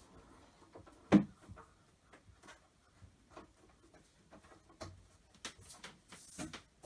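Handling noise from a flat-pack cupboard being worked on: one sharp knock about a second in, then scattered light clicks and taps.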